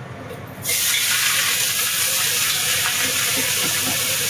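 Shredded red cabbage tipped into a hot wok on a gas stove, setting off a loud, steady sizzle that starts suddenly under a second in.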